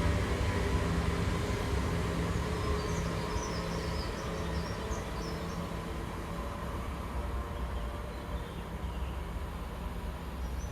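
Train engine humming steadily and slowly fading as it pulls away from the station. Faint bird chirps come in a few seconds in.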